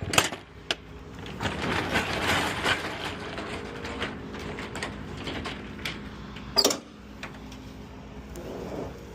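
Rear roll-up door of a box truck being unlatched and rolled open: a few sharp clicks, then a rattling rolling noise, and a single sharp bang a little over six seconds in. A low steady hum runs underneath.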